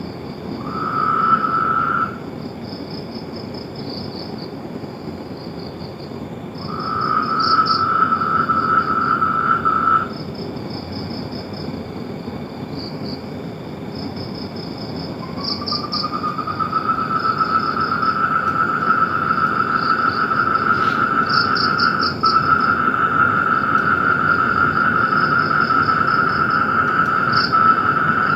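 Frogs calling in a chorus: steady trills that come and go, the longest starting about fifteen seconds in and running on, over a higher pulsing call that repeats throughout.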